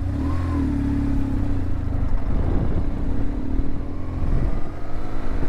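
Motorcycle engine revving and pulling away, its pitch rising steadily over a few seconds.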